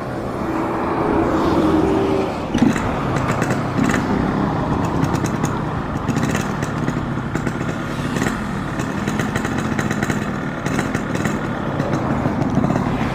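Yamaha RX-King 135 cc two-stroke single running through a Boban C33 aftermarket exhaust while being ridden, its revs climbing over the first couple of seconds and then rising and falling. A sharp click comes about two and a half seconds in.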